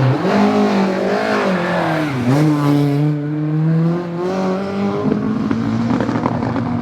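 Rally car engine accelerating hard. Its pitch drops sharply at a gear change about two seconds in and climbs again, then settles lower and steadier near the end.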